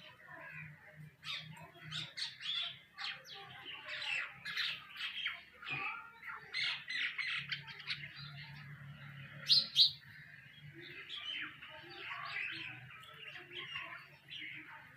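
Nightingales singing: a dense, continuous run of quick chirps and trills, with two loud sharp notes a little past halfway.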